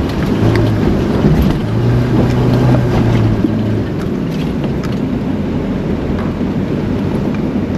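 A 4WD ute engine running steadily under load as the vehicle drives through a river, with rushing, splashing water and a few knocks. The engine hum is strongest during the first half.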